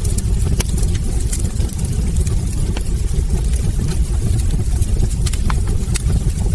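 Wood fire burning in a hearth: a steady low rumble with scattered, irregular sharp crackles and pops from the burning logs.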